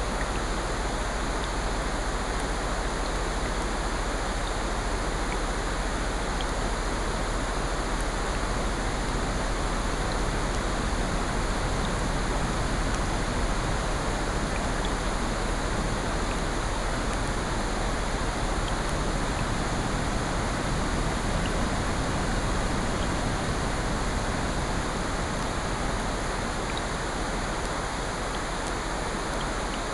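A steady blend of rain and ocean surf, with faint scattered crackles from a fireplace mixed in.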